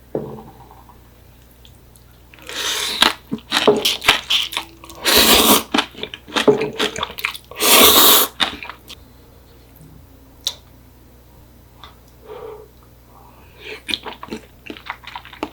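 Close-miked eating of instant ramen: a run of loud noodle slurps, two of them long, followed by quieter wet chewing and mouth clicks near the end.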